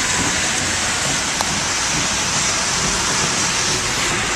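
Steady rain, an even hiss, heard from inside a car, with one brief click about a second and a half in.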